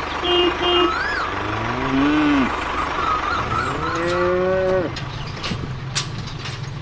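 A cow mooing twice, each long call rising then falling in pitch. Under it runs a steady low engine-like hum, with a few short high chirps.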